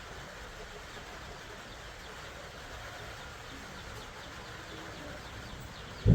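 Small birds chirping in the background, short high chirps repeating over a steady ambient hush, with a sudden loud low thump at the very end.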